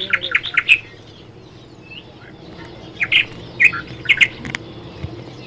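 Young parrot making short, sharp chirping squawks: a quick run of about five in the first second, a pause, then another cluster of calls about three to four and a half seconds in.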